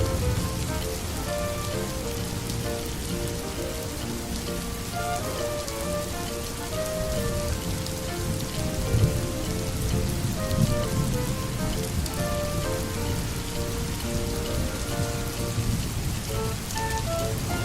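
Steady rainfall, an even patter, with a soft instrumental melody of single notes underneath.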